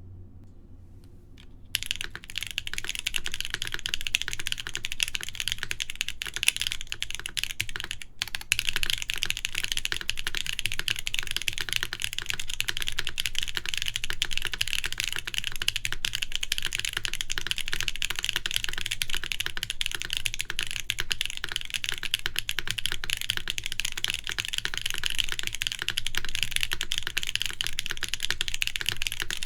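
Continuous fast typing on a Nayeon TKL mechanical keyboard with KTT Waverider switches on a full aluminium plate, under GMK keycaps. The typing starts about two seconds in and pauses briefly near eight seconds.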